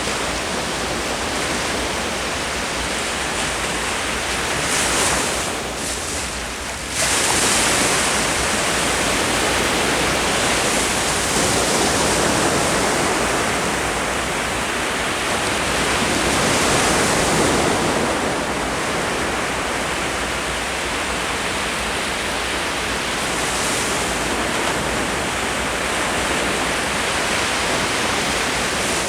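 Ocean surf washing onto the shore: a continuous rush of breaking waves that swells and eases every few seconds. It dips briefly about six seconds in, then comes back abruptly.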